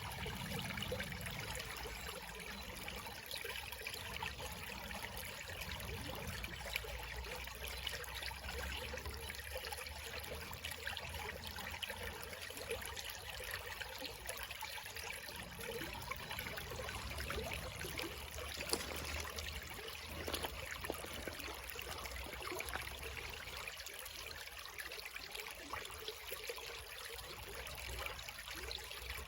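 Small creek flowing and trickling steadily over stones, an even rushing with fine splashing.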